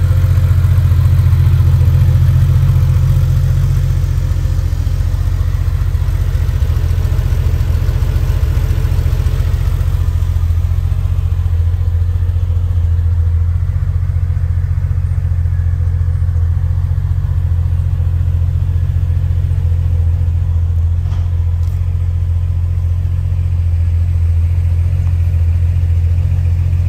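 Porsche 993 Carrera 2's air-cooled 3.6-litre flat-six idling steadily through its twin exhausts, still warming up after a cold start.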